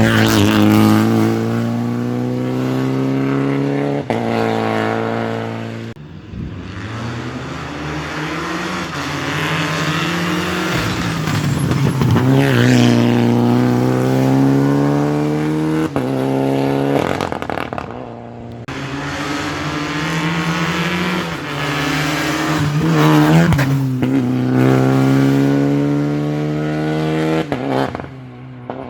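Rally cars on a wet stage driving past one after another, engines revved hard with the pitch climbing and dropping through gear changes. The engine sound dips briefly about six seconds in and again about eighteen seconds in, between cars.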